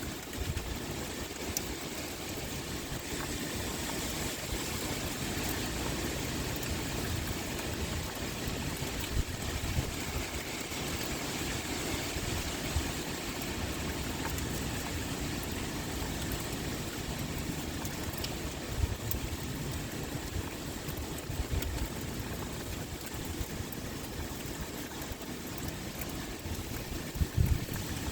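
Steady pouring rain with wind blowing, a constant hiss over a low rumble that comes and goes.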